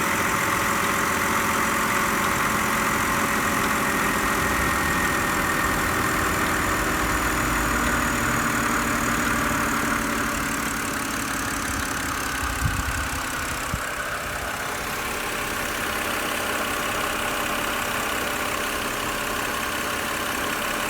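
A steady hissing noise over a low rumble, with two short knocks about two-thirds of the way through.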